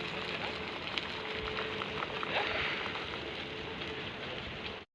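Rain gun irrigation sprinkler spraying water: a steady hiss of the jet and its spray falling like rain.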